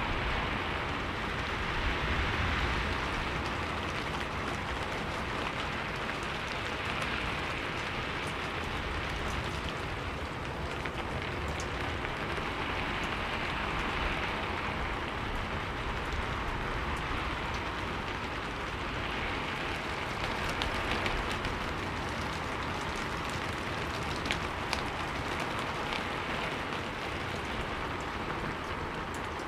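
Steady rain falling: an even hiss of rain with scattered, faint drop ticks.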